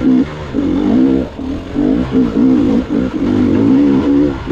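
Gas Gas EX 300 two-stroke dirt bike engine revving up and dropping off in quick, repeated throttle bursts.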